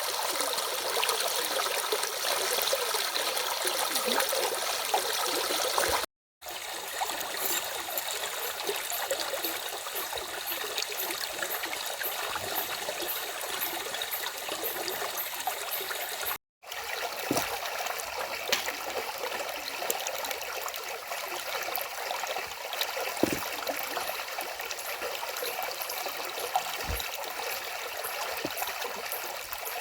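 Stream water running steadily over its bed, an even rushing and trickling. The sound cuts out completely for an instant twice, about 6 and 16 seconds in.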